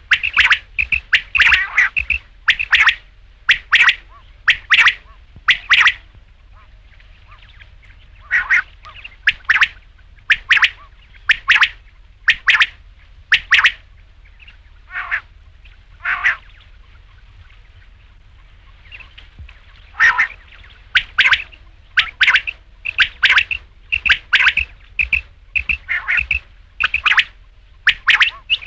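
Rain quail calling: short, sharp, high calls repeated in quick runs, with a pause of about two seconds a quarter of the way in and a longer pause of about three seconds past the middle.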